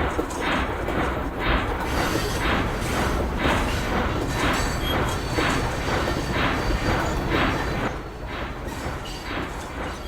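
Small steam locomotive chuffing steadily, about two exhaust beats a second, the beats growing fainter near the end.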